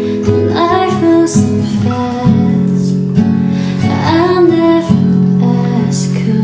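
Acoustic guitar strummed and plucked in a song's accompaniment, steady chords under a higher gliding melody line.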